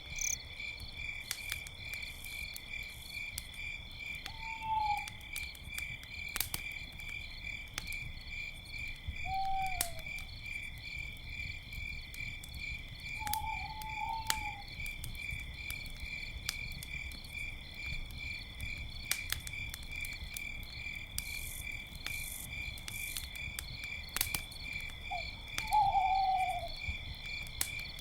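Crickets chirping in a steady, pulsing chorus, with an owl hooting about five times at intervals and a few sharp crackles of a campfire.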